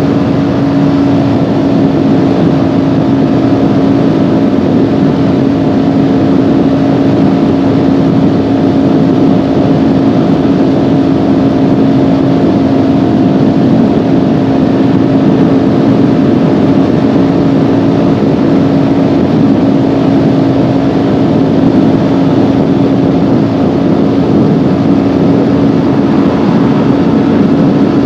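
Kawasaki Ninja 400's parallel-twin engine running at a steady cruising speed, one even engine note with no revving, over a haze of wind and road noise.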